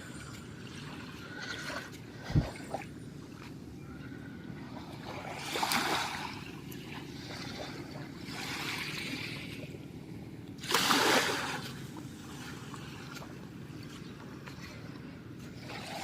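Small waves breaking on the beach, two louder breaks about a third and two thirds of the way through over a steady low wash of surf. A single short low thump a couple of seconds in.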